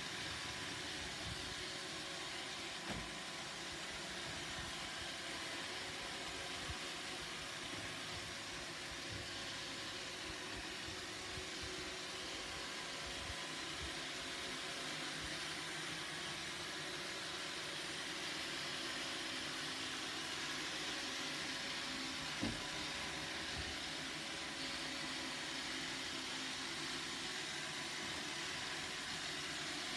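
Roomba robot vacuum running: a steady whirring hiss of its motor and brushes, with a few soft knocks.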